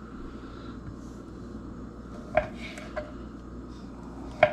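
Kitchen knife slicing sausage, knocking on the cutting board three times in the second half, the last knock the loudest, over a steady low hum.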